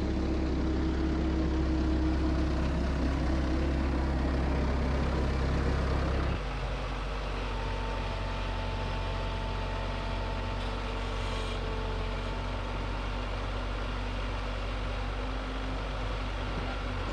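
Bobcat skid steer engine running steadily. About six seconds in it drops suddenly to a lower, quieter level and keeps running.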